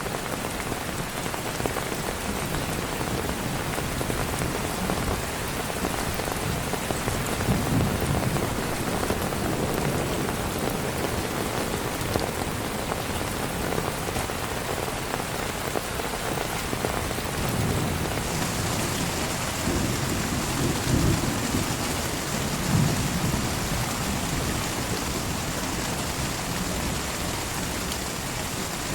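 Heavy rain falling steadily, with thunder rumbling low several times, loudest a little past the middle.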